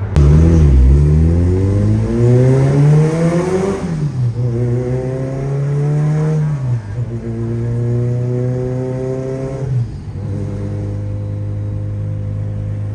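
Car engine accelerating hard through the gears: the pitch climbs steeply, falls at a shift about four seconds in, holds, dips again around seven seconds, climbs once more, then settles into a steady cruising drone about ten seconds in.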